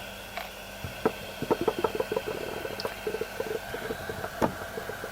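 Heat gun running with a steady hum while the bulb assembly is handled, giving a run of small, quick clicks and taps from about a second in.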